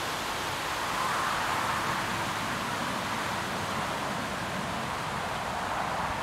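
A steady rushing noise with no distinct calls or knocks, swelling slightly about a second in.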